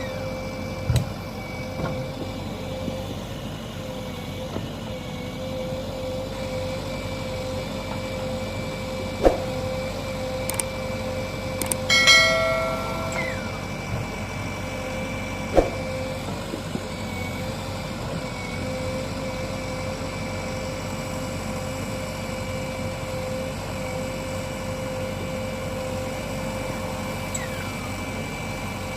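A backhoe loader's diesel engine running steadily with a constant whine. A few sharp knocks come through, and about twelve seconds in there is a brief ringing tone.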